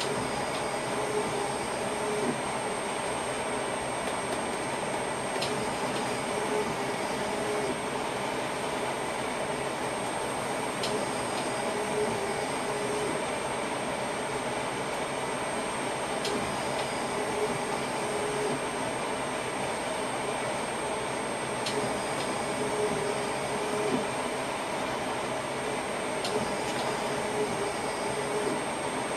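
Steady running noise inside a passenger train's driver's cab, an even hum and rush with faint steady tones. A faint short tone with a click repeats about every five and a half seconds.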